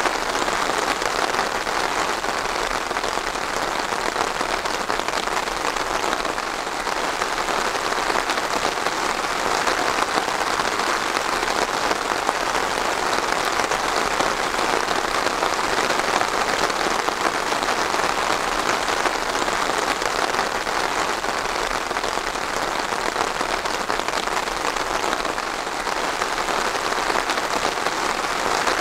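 Steady rain falling on a hard surface, a dense even patter with no pauses.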